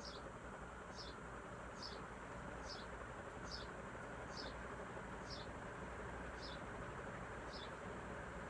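Hampton Bay SMC industrial ceiling fan running on high, a steady rush of moving air. A short, high chirp repeats evenly, a little more than once a second.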